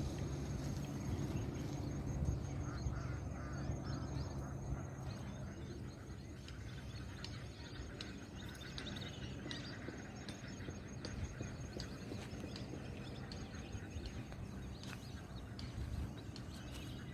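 Wild ducks calling in short, scattered quacks over a low steady rumble.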